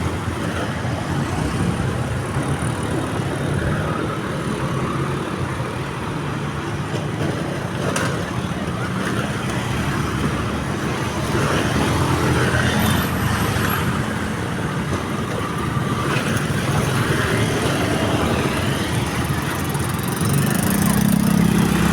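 Road traffic: car and motorcycle engines running and passing steadily, with an engine rising in pitch near the end.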